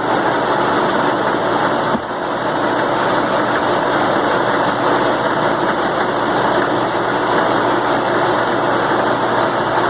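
Milling machine running with a loud, steady mechanical noise that stays even throughout.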